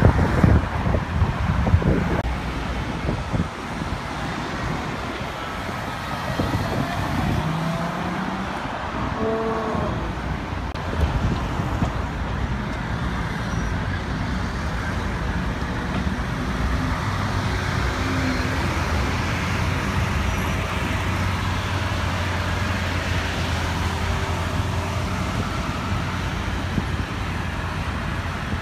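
Busy city road traffic, with wind buffeting the microphone in the first couple of seconds and a short rising engine note about eight seconds in. From about halfway through, a steady low engine hum sits close by: a Lamborghini Aventador's V12 idling in slow traffic.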